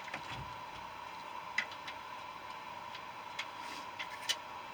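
A few light, sharp clicks and taps of metal parts being handled while a central air compressor is taken apart for its copper, spaced a second or two apart over a steady faint hum.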